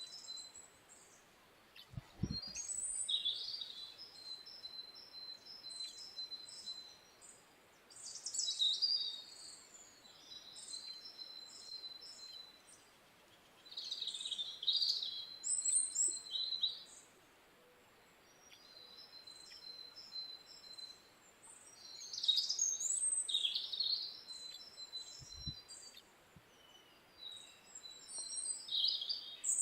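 Wild songbirds singing, with phrases of high chirps and trills repeating every few seconds and short pauses between them. A dull low thump comes about two seconds in and another near the end.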